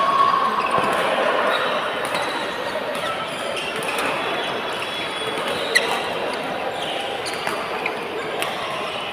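Badminton doubles play on an indoor court: sharp racket hits on the shuttlecock, the loudest about six seconds in, and brief squeaks of court shoes, over a steady background of hall noise.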